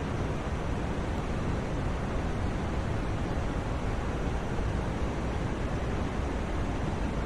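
Steady white-noise track: an even, unchanging hiss, heavier in the low end than high, like pink noise.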